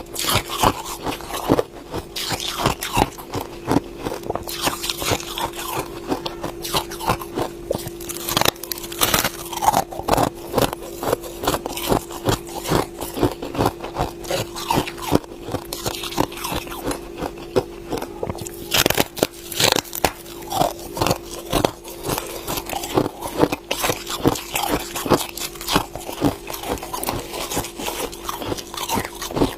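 Ice being bitten and chewed close to the mouth: a dense, irregular run of sharp crunches and cracks.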